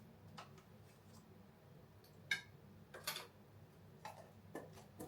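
Scattered light clicks and knocks of things being handled in a kitchen, the sharpest about two seconds in and a short rustling clatter a little after, over a faint steady hum.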